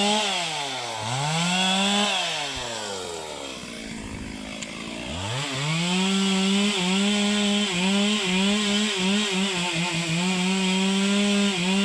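Chainsaw engine revving up and falling back twice, dropping to a low idle, then held at high revs while cutting wood, its pitch dipping briefly several times as the chain takes the cut.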